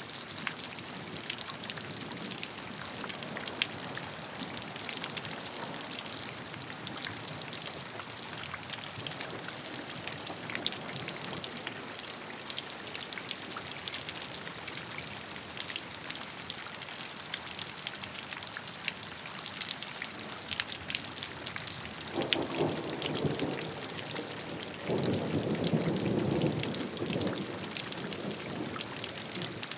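Steady rain falling, with the patter of individual drops throughout. About two-thirds of the way in, a low rumble of thunder swells twice and is the loudest part.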